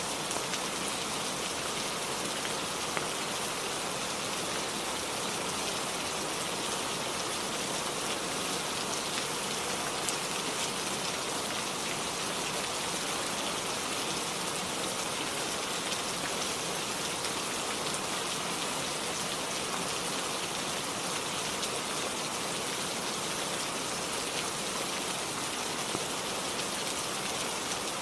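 Steady rainfall: an even hiss with faint scattered ticks of individual drops.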